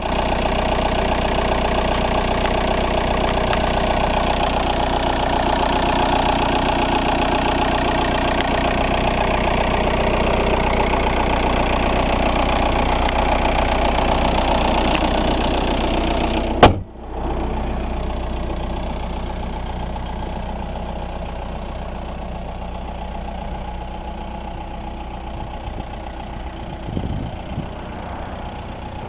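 A 2005 Volkswagen Jetta TDI's 1.9-litre four-cylinder turbo-diesel engine idling steadily. A sharp click comes a little past halfway, after which the engine sounds quieter and duller.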